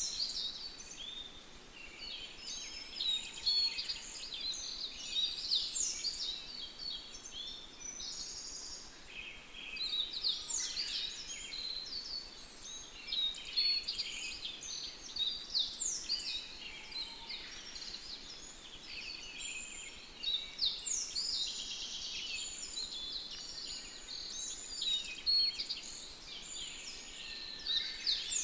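Birds chirping and singing, a busy run of short, high calls that swells and eases every few seconds.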